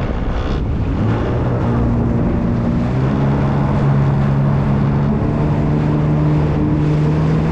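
Jet ski engine running over a rush of wind and water; its note steps up about three seconds in and then holds steady.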